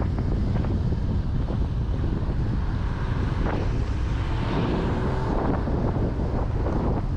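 Wind buffeting the microphone of a camera riding on a moving bicycle, a steady low rumble with faint scattered clicks and rattles.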